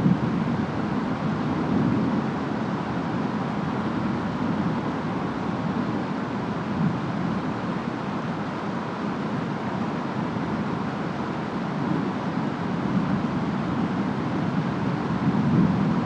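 Steady rain and wind of a storm, with a low rumble that eases off after the start and swells again near the end.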